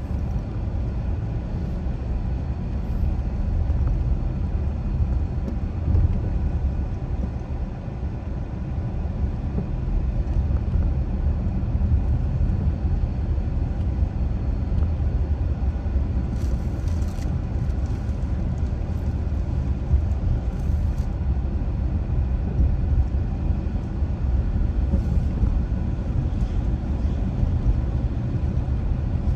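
Car driving on a road: a steady low rumble of tyres and engine.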